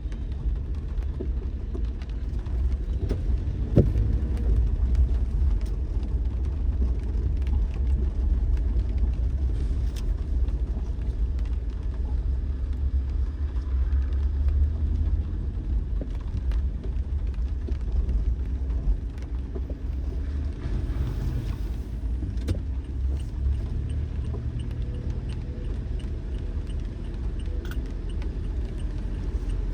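A car driving: a steady low road-and-engine rumble with scattered light clicks and rattles.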